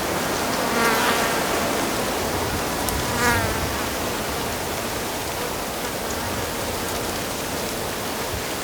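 Steady rush of flowing water, with a buzzing insect passing close twice, about a second in and again near three seconds, its buzz bending in pitch as it goes by.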